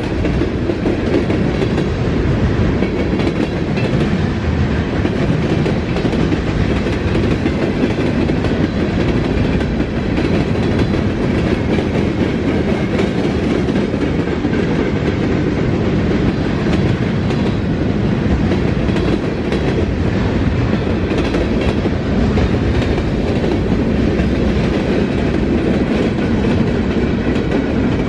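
Freight train cars rolling past at speed: a steady, loud rumble and clatter of steel wheels on the rails.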